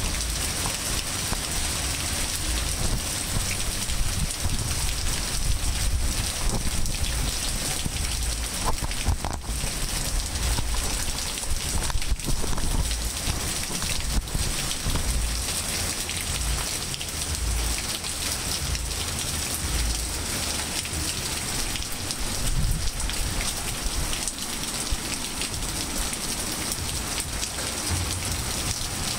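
Steady rain falling on trees, grass and pavement: a dense, even hiss of many drops, with an uneven low rumble underneath.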